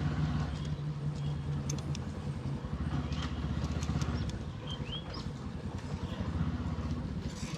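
Motorcycle engine running steadily under way, picked up by a lapel mic inside the rider's helmet. Scattered clicks and a couple of short chirps about halfway through.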